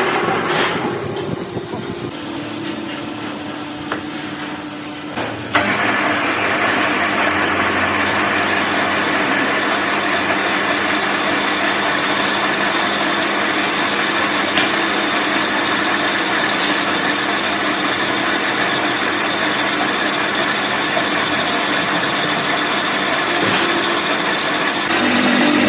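Heavy truck engine running steadily. It is quieter for a few seconds near the start, then comes back up suddenly about five seconds in.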